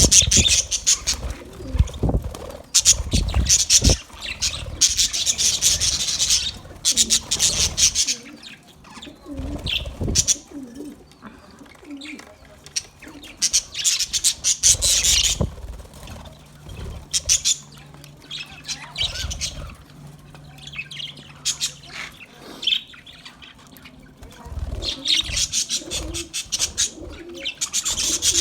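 Budgerigars chattering and chirping in rapid bursts, loud in the first few seconds, again about halfway and near the end, with quieter spells between; low soft thumps come through underneath.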